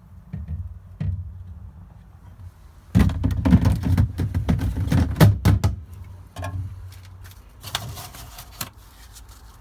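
A quick run of knocks and rattles lasting about three seconds, with a few more a couple of seconds later, over a steady low hum.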